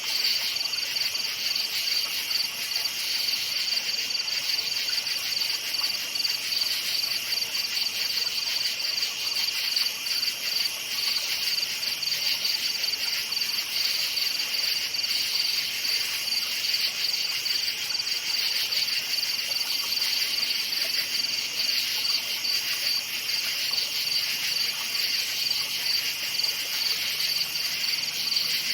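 Crickets chirping in a steady, dense chorus, a high rapid trill that runs on without pause.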